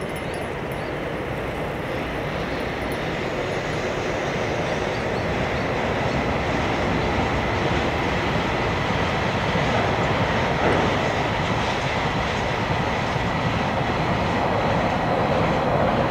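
Freight train of tank wagons hauled by an EH200 electric locomotive running over a concrete bridge: a steady rumble of wheels on rail that grows gradually louder as the wagons pass.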